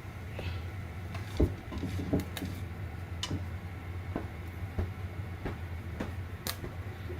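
Popcorn kernels popping: irregular sharp pops, roughly one or two a second, over a steady low hum.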